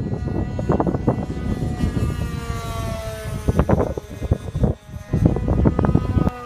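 Radio-controlled model airplane engine whining in flight, its pitch sliding down as it flies past. Heavy wind buffeting on the microphone rumbles and thumps over it.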